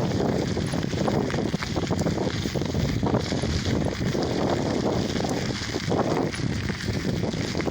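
Wind buffeting the phone's microphone during a bicycle ride: a steady low rushing rumble with small crackles.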